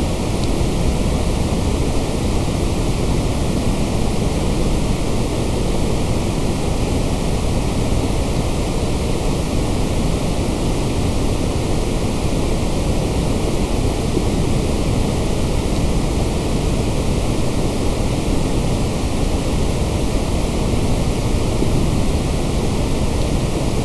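Steady, unchanging white-noise hiss from a generated noise track, even and continuous, fuller in the bass than in the treble.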